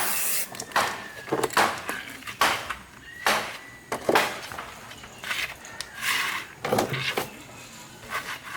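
Irregular knocks and clicks of hard objects being handled and set down, about a dozen spread unevenly over several seconds, with a short scraping hiss near the middle.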